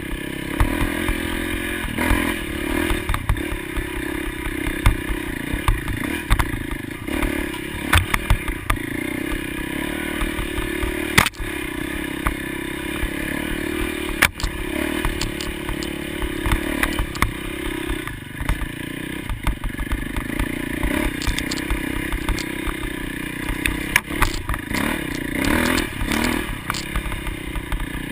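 Motocross motorcycle engines running and revving, pitch rising and falling, with frequent knocks and clatter.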